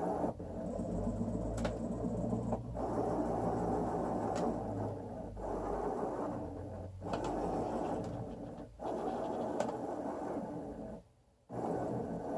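Excalibur Mirage robotic chess computer's mechanism running, its motor-driven electromagnetic head travelling under the board with a steady whirring scrape. It stops briefly several times between movements, with a few faint clicks.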